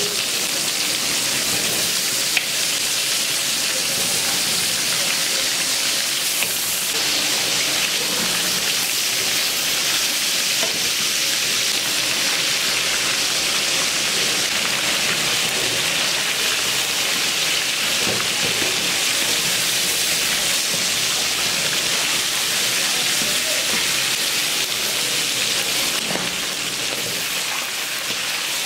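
Katla fish heads frying in hot oil in a pan: a steady, even sizzle.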